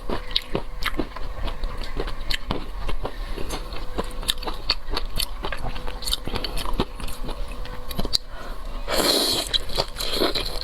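Close-miked biting and chewing of crispy stuffed shrimp: repeated sharp crunches, with a louder, noisier burst about nine seconds in.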